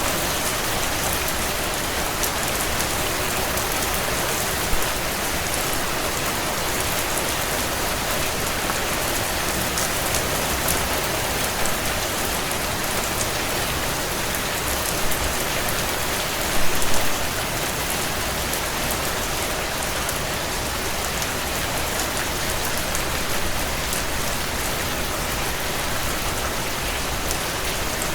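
Heavy rain drumming steadily on a tin roof, a dense hiss with sharp ticks of single drops striking the metal. There are brief louder spatters a little past halfway, the biggest about 17 seconds in.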